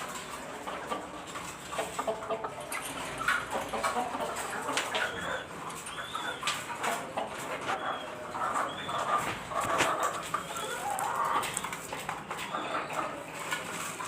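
Dong Tao (Vietnamese dragon) chickens clucking, with scattered short high chirps and sharp clicks among the calls.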